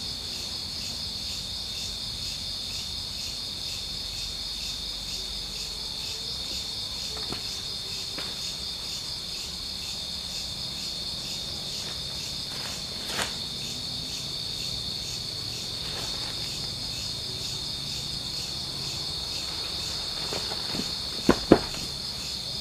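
Crickets and other night insects chirping in a steady, high-pitched, pulsing chorus. A faint click comes about halfway through, and two sharp knocks in quick succession near the end are the loudest sounds.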